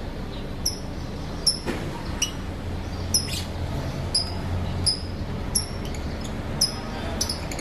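Lovebirds chirping: short, sharp, high chirps, about ten of them at uneven intervals roughly a second apart, over a low steady hum.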